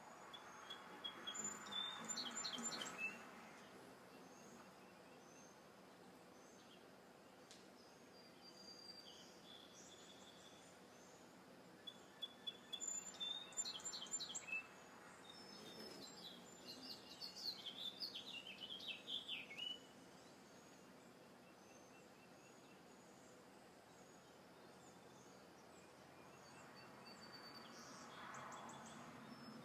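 Wild birds chirping and singing in short bursts of quick high notes: a phrase about a second in, and two more around the middle. Faint scattered chirps fill the gaps over a low, quiet outdoor background, which swells softly near the end.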